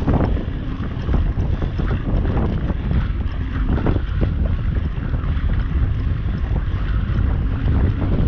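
Strong wind buffeting the microphone, a loud low rumble that goes on throughout.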